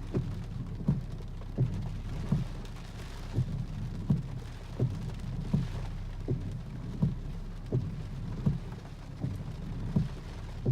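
Steady wind and rain noise during a cold-front storm, with a regular low thump about every three-quarters of a second.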